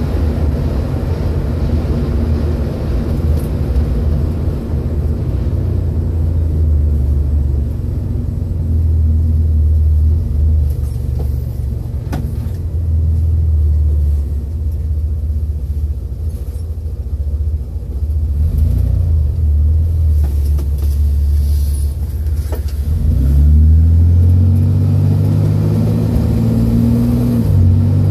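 Chevrolet Corvair's rear-mounted, air-cooled flat-six engine heard from inside the cabin while driving, a steady low drone with road noise. It eases off for a stretch, then rises in pitch as the car accelerates, a little over three-quarters of the way through.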